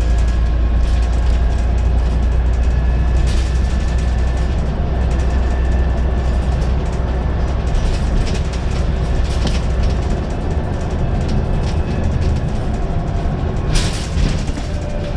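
Scania N94UD double-decker bus under way, its engine giving a heavy low rumble that drops about ten seconds in, with a faint high whine from the ZF automatic gearbox. Short rattles from the body come through twice.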